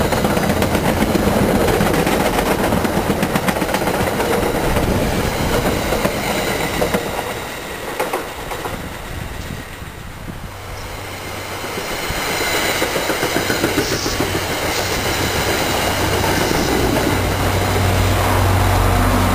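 Commuter train passing, its wheels clicking rhythmically over rail joints, fading out before halfway. A second train then rolls in with the same clicking, and near the end the low, steady hum of its diesel locomotive pushing at the rear grows loud.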